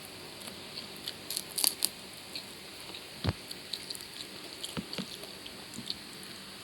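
A person eating: chewing, with short crisp crunches and wet mouth clicks and smacks, and one sharper low knock about three seconds in.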